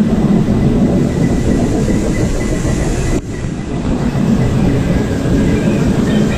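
Steady loud rumble and clatter of a river-rapids raft ride in motion, briefly dipping about three seconds in.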